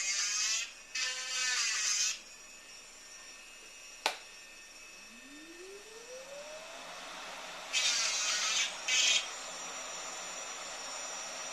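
Handheld jeweller's rotary tool (graver) whining in short bursts, its pitch bending as it works the metal. About four seconds in there is a sharp click, then a small electric motor spins up in a rising whine over about two seconds and runs on steadily. Two more short bursts of the rotary tool come near the end.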